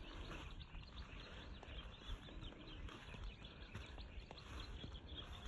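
Faint outdoor background noise with scattered small bird chirps.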